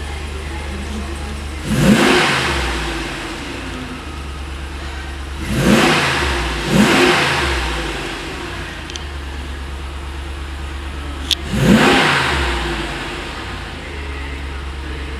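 Ram 6.4-litre HEMI V8 idling steadily and revved four times, each rev climbing quickly and sinking back to idle.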